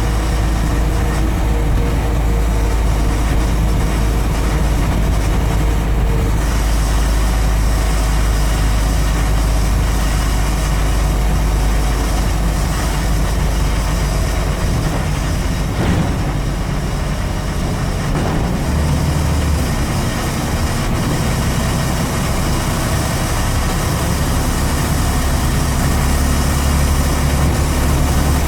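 Scania N94UD double-decker bus's rear-mounted five-cylinder diesel engine, heard from the back seat, running steadily under way. About halfway through, its low drone drops for a few seconds, then comes back at a different note.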